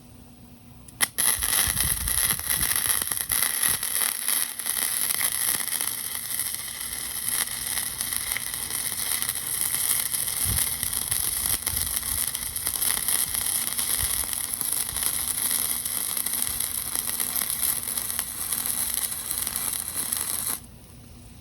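Electric arc welding: the arc strikes suddenly about a second in and runs as a steady, dense crackle for about twenty seconds while a weld bead is laid, then cuts off abruptly near the end.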